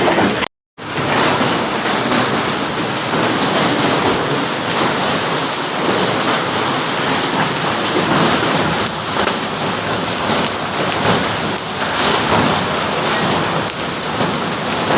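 Heavy hail pelting down with rain: a dense, steady clatter of countless stones hitting hard surfaces. The sound cuts out for a moment about half a second in, then resumes.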